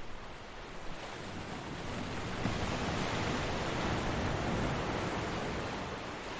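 Ocean surf: a wave breaking and washing in, the rush of water swelling about two seconds in and easing off near the end.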